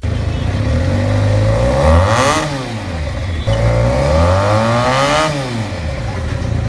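Benelli 302R's 300cc liquid-cooled parallel-twin engine revved twice from idle. Each rev climbs in pitch for a second or two, then falls back, and the engine settles to a steady idle near the end.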